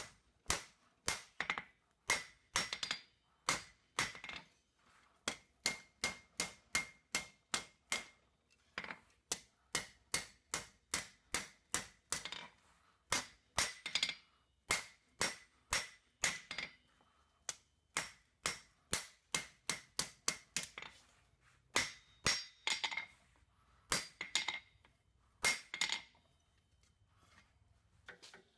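Hand hammer striking a 5/8" square steel bar on an anvil while forging a snub end, in runs of about two to three blows a second broken by short pauses. Many blows leave a brief high anvil ring.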